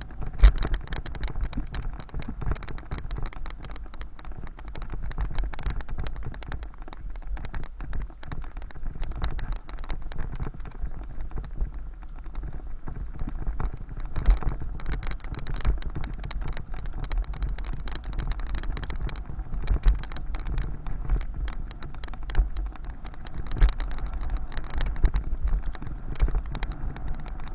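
Bicycle riding over city streets, heard through a bike- or body-mounted camera: a steady low rumble of wind and road on the microphone, with constant irregular rattling and knocking from bumps in the surface.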